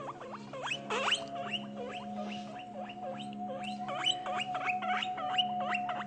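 Guinea pigs squeaking: a busy run of short, high squeaks, several a second, over soft background music with long held notes.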